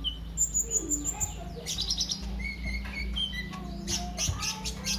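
Sunbird (the 'kolibri ninja' of Indonesian bird keepers) singing: a quick run of high, thin chirps and short sweeping notes, over a steady low hum.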